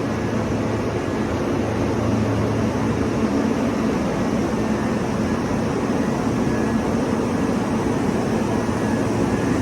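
Steady mechanical drone and rush of noise with a faint hum, as from a standing electric train's equipment and the machinery of an enclosed station platform.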